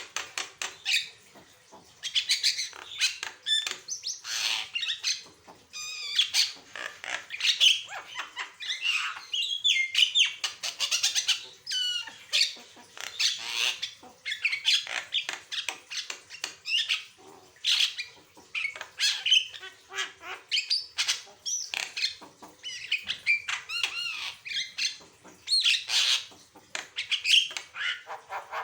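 Javan myna singing busily: a fast, ever-changing run of whistles, chattering trills and harsh squawks with only brief pauses.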